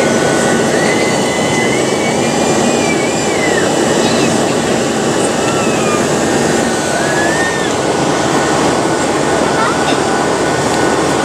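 Steady cabin noise inside a Boeing 737-700 in flight: its CFM56-7B jet engines and the airflow over the fuselage make an even, unbroken noise.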